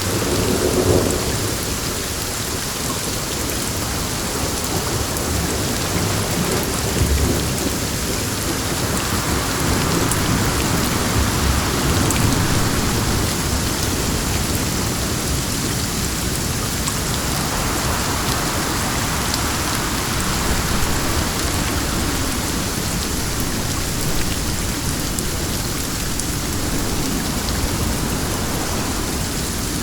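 Steady rain with wind, a dense even hiss that swells and eases slowly, with low rumbles now and then underneath.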